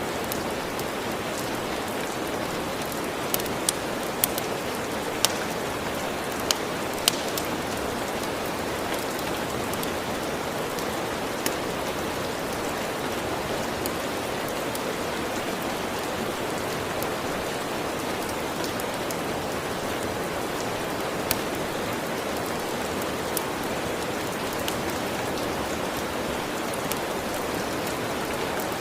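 Steady rain falling, with occasional sharp crackles from a wood fire, a handful close together a few seconds in and a few more scattered later.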